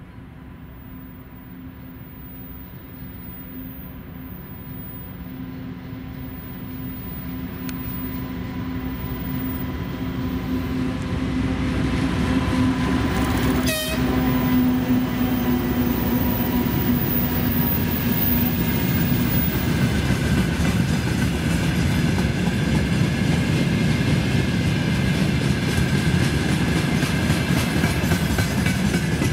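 2TE116 diesel locomotive with its 16-cylinder 5D49 diesel engines approaching under power, its steady engine drone growing louder until it passes close by. About two-thirds of the way through, the engine sound gives way to the loud steady rumble and clatter of loaded tank-car wheels rolling over the rails.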